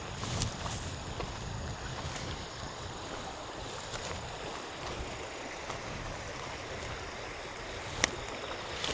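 Steady rush of flowing river water, with a few faint ticks and one sharp click about eight seconds in.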